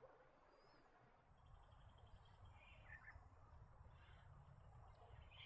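Near silence with a few faint, short bird calls over a low background rumble.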